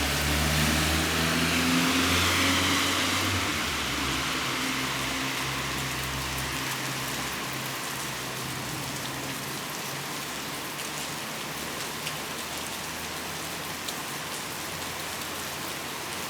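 Steady hiss of rain falling, with scattered drips and patter. In the first few seconds a car's engine runs and passes with a swell of tyre hiss on the wet road, then fades out.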